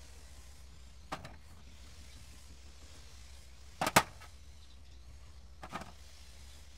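Three sharp knocks spaced a second or two apart, the loudest a quick double knock about four seconds in, over a faint steady low hum.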